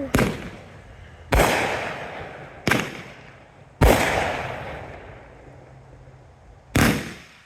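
Aerial fireworks bursting overhead: five loud, sudden bangs at uneven intervals, each trailing off as it echoes.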